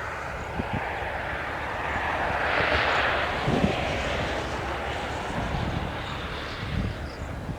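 A broad rushing noise that swells to a peak about three seconds in and then slowly fades, with a few low thumps underneath.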